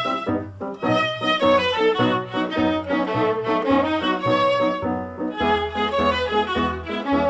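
Small-orchestra film music with a violin melody over a bass line that steps along in even notes.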